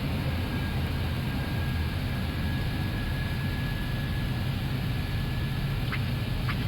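Steady flight-deck noise of an Airbus A321neo on approach: a low rumble of airflow and engines, with a faint thin steady tone and two short clicks near the end.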